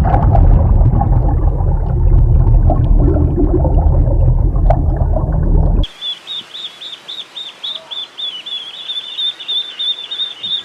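Loud, low rumbling noise for about six seconds, then a sudden change to a bird chirping rapidly and repeatedly, about four or five high chirps a second.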